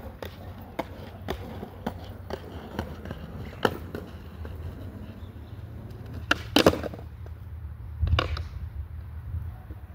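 Skateboard rolling on pavement: a low rumble from the wheels with a regular clack about twice a second as they cross joints. About six and a half seconds in, the board comes down hard with a quick run of loud clacks, then another knock and a burst of rolling rumble a little after eight seconds.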